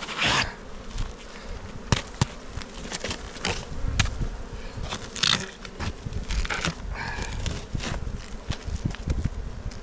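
Honeybees buzzing around an opened hive, with scattered sharp knocks and scrapes of wooden hive frames and boxes being handled.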